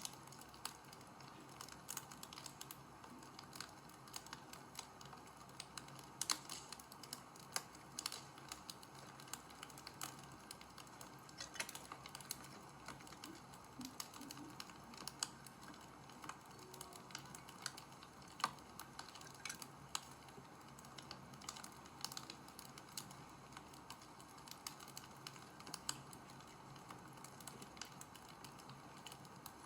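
Wood fire crackling: irregular sharp pops and snaps over a soft, steady hiss.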